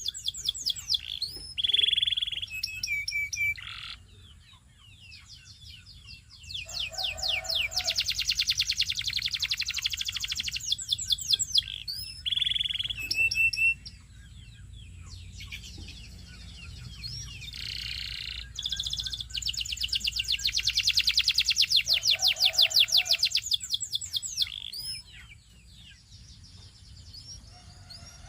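Domestic canary singing: long runs of very fast trills made of rapidly repeated notes, broken by short whistled notes, with two brief pauses between song bouts.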